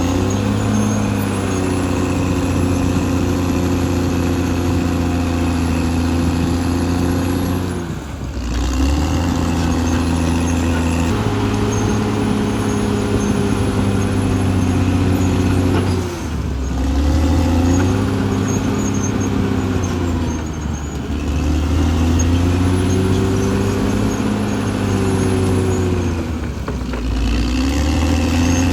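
Caterpillar D6R XL bulldozer's diesel engine running steadily under load. Its note dips briefly and recovers four times as the load changes.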